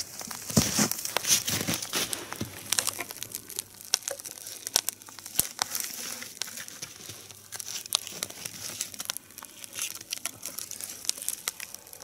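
Twig kindling burning under the logs of a three-log nodya campfire, crackling with many irregular sharp pops over a steady hiss.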